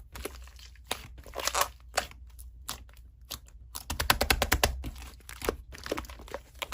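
Slime being squeezed and poked by hand, making irregular crackling and popping clicks, thicker about four seconds in.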